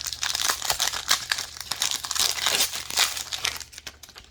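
Crinkling and tearing of a trading card pack's wrapper being ripped open and handled, a dense crackle that thins out near the end.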